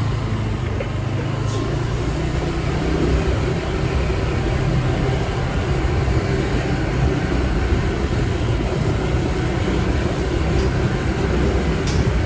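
Motorbike ride through traffic: steady engine and road noise, heaviest at the low end, with no single event standing out.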